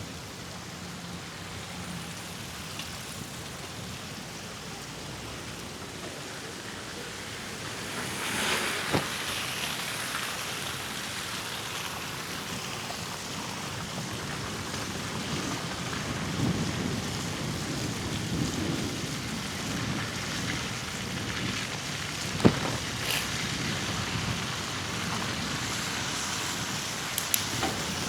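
Steady rushing noise of a bicycle ride on a snowy, slushy road: wind over the microphone and tyres hissing on the wet surface, a little louder from about eight seconds in. A few sharp knocks stand out, one about nine seconds in and several in the last third.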